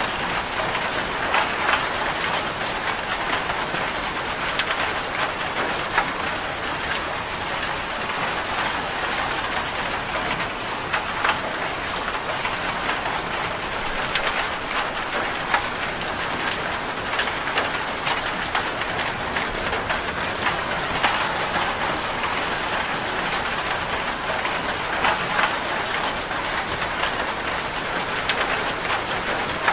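Steady rain: a dense, even hiss full of small drop ticks, with a few scattered louder drips.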